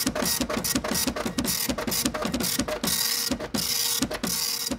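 A printer at work, its mechanism going in quick repeated strokes with short pauses between passes, over a steady whine.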